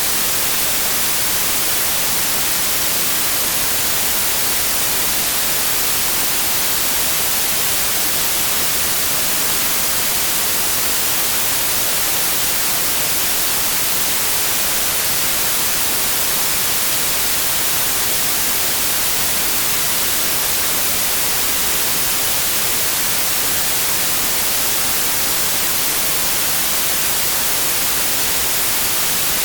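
Steady, unchanging white noise: an even hiss across all pitches, brightest in the treble, with no rhythm or pulse.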